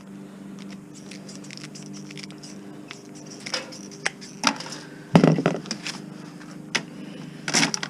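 Scattered clicks and metal clanks from hand tools and parts while a washing machine is stripped for scrap, the loudest knock about five seconds in and another cluster near the end, over a steady low hum.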